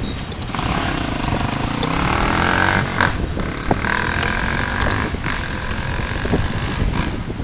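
A motor vehicle's engine running, its pitch sliding for a couple of seconds.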